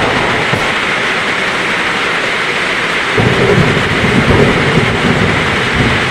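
Heavy rain falling steadily, with a low roll of thunder that rumbles in about halfway through and eases off near the end.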